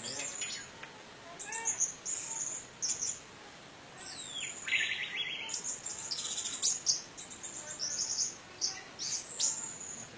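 Orange-headed thrush singing a varied run of rapid high chirps and trills, with a buzzy phrase that slides down in pitch about halfway through.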